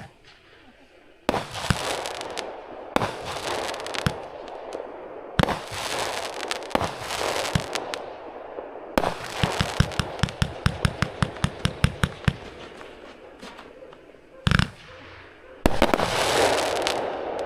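45-shot, 500 g consumer firework cake (Neon Cosmic Rain) firing its shots: sharp launches and bursts with dense crackling. In the middle comes a rapid run of about four shots a second, and near the end a loud stretch of crackle.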